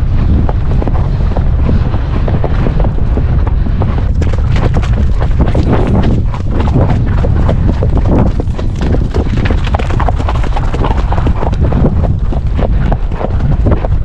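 Horses cantering, their hoofbeats coming in a quick, continuous rhythm of many strikes, over a heavy rumble of wind buffeting the action camera's microphone.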